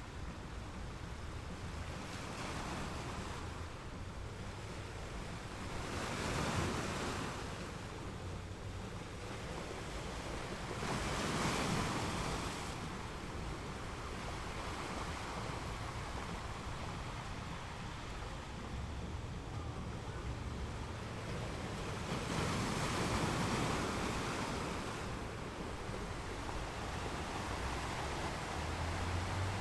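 Atlantic surf breaking and washing up a sandy beach, with louder surges every several seconds over a steady wash, and a low wind rumble on the microphone.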